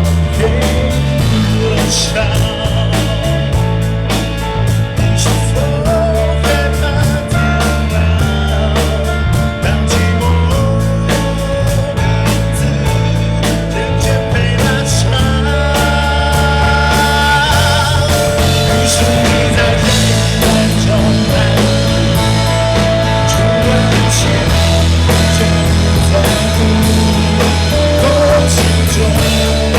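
Live band music with sung vocals over a steady bass line and drums, recorded loud and sounding rough and distorted through a compact camera's built-in microphone.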